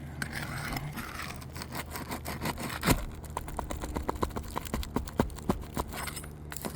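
Steel flat bar or roof snake working under brittle asphalt shingles to pry the nails loose: a run of sharp metal clicks and taps, about four or five a second, with one louder click about three seconds in.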